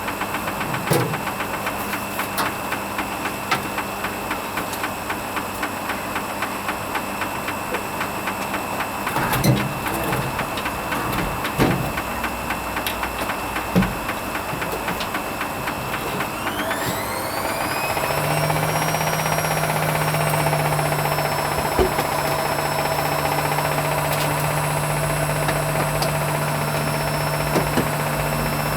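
Hoover Vision HVP16 washing machine running its Silks programme: the drum turns with a steady mechanical rattle and a few knocks. About two-thirds of the way through, the motor whine rises and settles into a steady higher pitch with a low hum as the drum speeds up into a spin.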